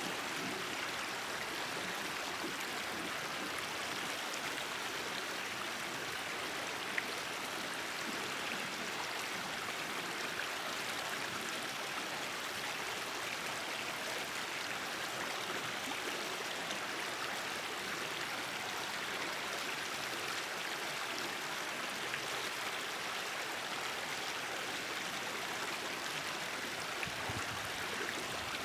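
Hot sulphur spring water flowing steadily along a shallow stream, an even trickling wash with no change. A single short click about seven seconds in.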